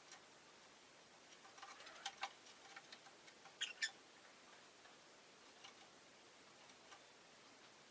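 A rose-faced lovebird making a scatter of faint short ticks and chirps between about one and a half and four seconds in, the sharpest two pairs near two and near four seconds in, over a near-silent background.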